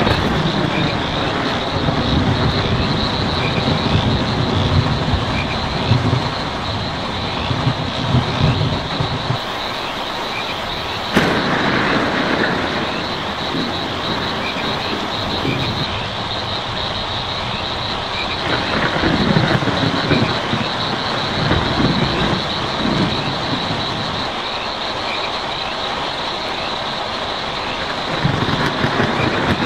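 Steady rain drumming on a tin roof, with low rumbles of distant thunder that swell and fade several times. There is a sudden louder clap about eleven seconds in.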